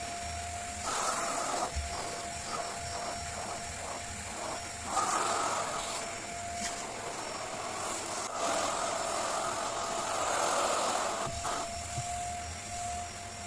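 Vacuum cleaner running with a steady motor whine, its airflow swelling and easing several times.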